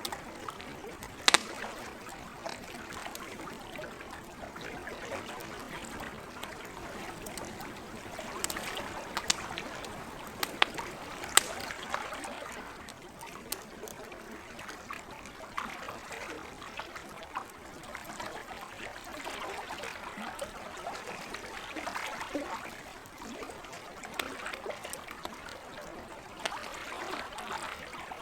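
Campfire crackling, with sharp wood pops about a second in and a cluster around the middle, over lake water lapping and trickling.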